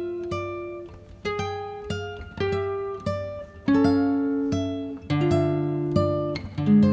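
Background music: an acoustic guitar picking a slow melody, one note about every half second, each ringing out and fading over a held lower note.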